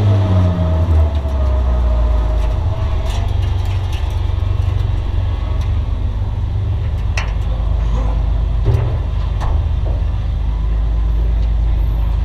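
Bomber-class race car's engine running at low revs as the car rolls slowly, a steady low rumble heard from inside the gutted cabin. A few sharp clicks or knocks come in the second half.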